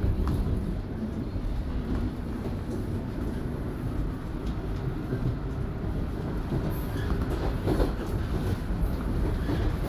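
Toronto subway Line 1 train running between stations, heard from inside the car: a steady low rumble of wheels on the track, with a brief louder clatter about eight seconds in.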